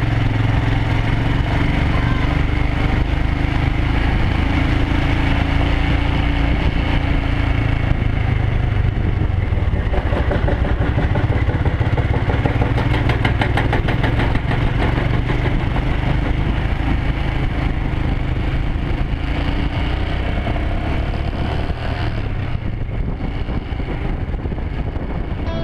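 Motorcycle engine running steadily while being ridden, a continuous low hum that eases a little near the end.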